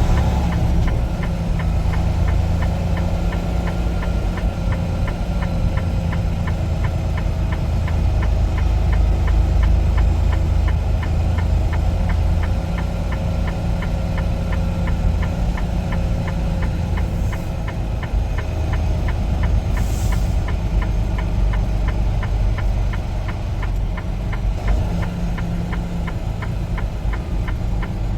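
Semi truck's diesel engine running, heard from inside the cab, with a steady, rapid ticking over it for roughly the first two-thirds.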